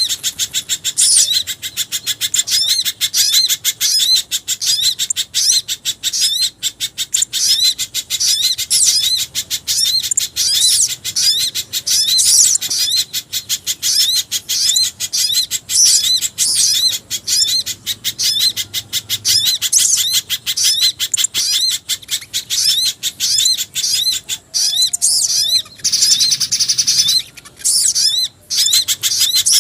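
Bird-lure recording of mixed small-bird calls, pijantung gunung (spiderhunter), sogon and jingjing batu, played as a fast, unbroken stream of high, sharp chips and short trills. Near the end a brief hissy burst comes in and the sound cuts out twice for a moment, like an edit in the loop.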